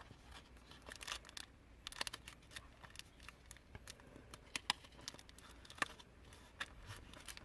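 Faint crinkling of decorative paper and small sharp clicks and crackles of sticky tape being handled and pressed down while a small candy bar is wrapped, with scattered ticks throughout.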